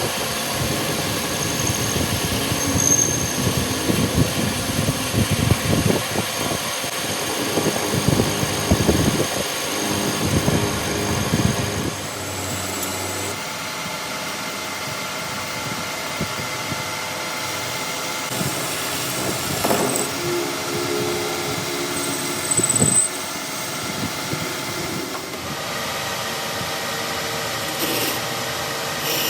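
Workshop machinery running, with many irregular knocks for the first twelve seconds, then a steadier machine noise.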